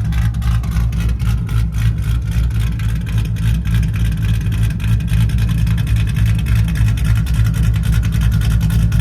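Cammed Ford Mustang GT's 4.6-litre three-valve V8, straight-piped without catalytic converters, idling with a choppy, lumpy cam lope. This is the 'chop' of the aftermarket camshafts. It holds steady with no revving and cuts off suddenly at the end.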